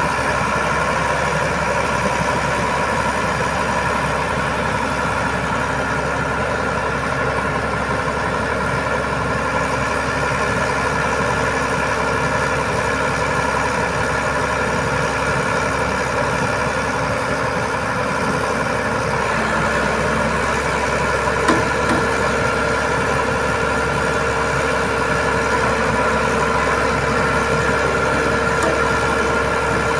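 Boom truck's diesel engine running steadily at idle. Its tone shifts slightly about two-thirds of the way through, with a single short knock soon after.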